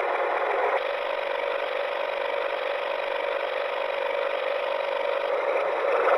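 Tractor engine start sound effect played in reverse: a steady, rattling engine sound that grows a little louder near the end.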